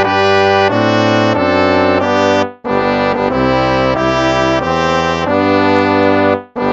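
Instrumental hymn played on brass instruments: slow held chords, with a short break between phrases about two and a half seconds in and another near the end.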